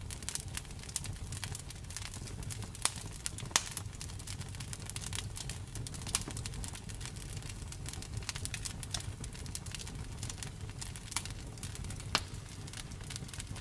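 Wood fire crackling steadily over a low rumble of flame, with frequent small snaps and a handful of louder pops.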